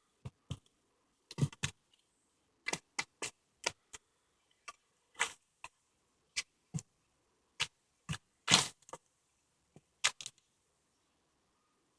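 Footsteps on a woodland path: short, uneven crunches and snaps of twigs and dry leaf litter underfoot, some in quick clusters, stopping a little after ten seconds in.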